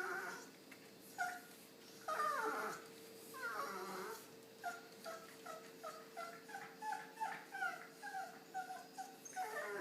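A dog whining and whimpering, sounding in pain. There are two long falling whines, then a run of short whimpers about two a second, then another falling whine near the end.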